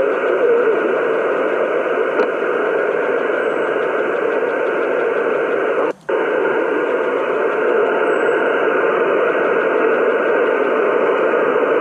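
Static hiss from a ham radio transceiver receiving on single sideband, an even rushing noise confined to the narrow voice band, with a brief sudden drop-out about six seconds in.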